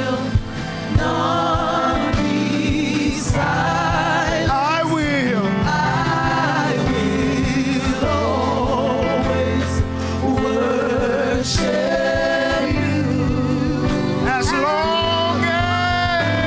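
Live gospel worship music: a band with sustained keyboard chords and bass, and voices singing long, wavering notes with vibrato, with occasional cymbal hits.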